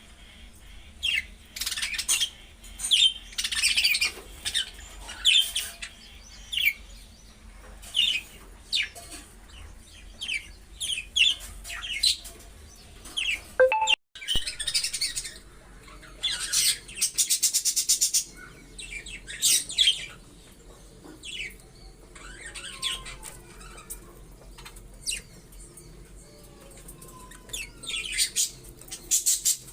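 Budgerigars chirping and chattering in short, high calls, with a rapid buzzy call a little past halfway.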